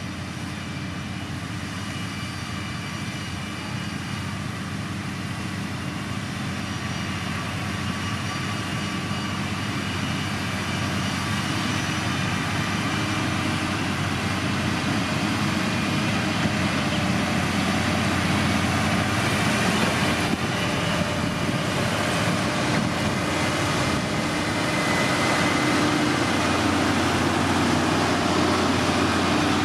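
Diesel engine of heavy road-building machinery running steadily, growing gradually louder over the stretch.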